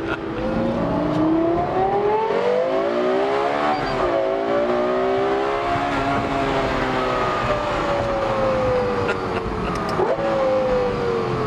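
Lexus LFA's 4.8-litre V10 under way, revving up with pitch climbing, dropping sharply at a quick gearshift about four seconds in, then slowly falling as it eases off, with a brief rev blip near the ten-second mark.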